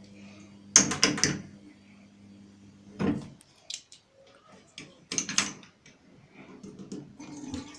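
A few short plastic clatters and knocks as a small toy toilet's flush is worked without success, over a faint low hum that stops about three seconds in.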